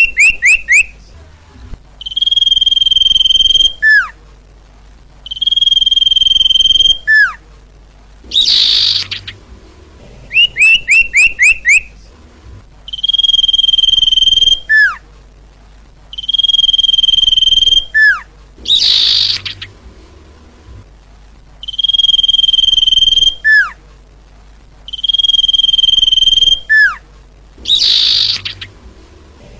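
Looped lure recording of 'sirtu' bird calls, repeating about every nine seconds. Each round holds a quick run of five or six short falling chirps, pairs of long, steady, high whistles about two seconds each, single falling slurred notes, and a harsh buzzy call about a second long.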